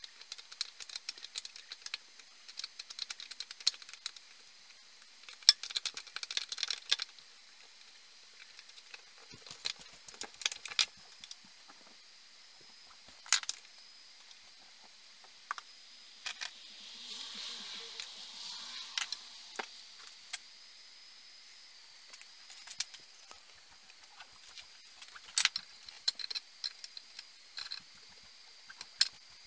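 Small metal parts and hand tools clicking and clinking in irregular bursts, with a soft hiss for a few seconds about halfway through.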